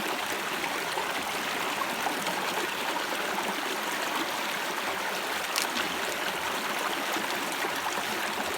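A stream running steadily, an even rush of water with no breaks, with one brief click a little past halfway.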